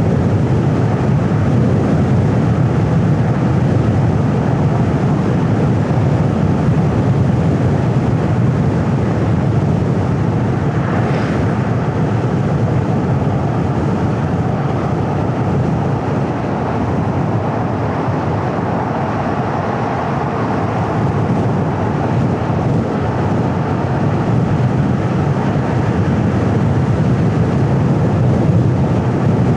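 A car driving at steady speed: continuous low road and engine noise, with a brief hiss about eleven seconds in.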